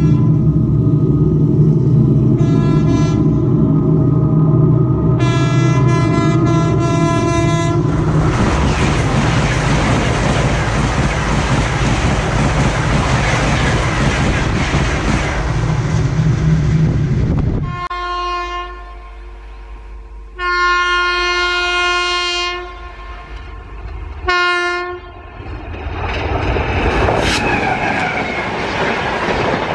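Locomotive horn blasts, two of them, as the Gatimaan Express approaches at about 160 km/h. Then the train rushes past with wheel and rail clatter for about ten seconds. Three more horn blasts follow, and near the end the Rajdhani Express begins rushing past.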